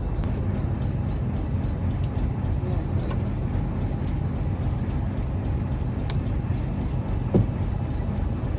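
Fishing trawler's engine running steadily with a low rumble. A sharp click about six seconds in and a short knock about a second later.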